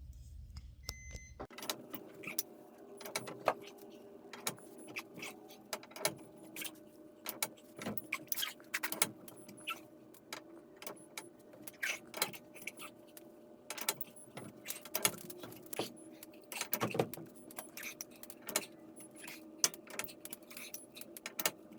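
Steel winding bars clinking and clicking against the winding cone of a garage door torsion spring as the spring is wound up by hand, many irregular metallic clinks. A faint steady hum starts about a second and a half in.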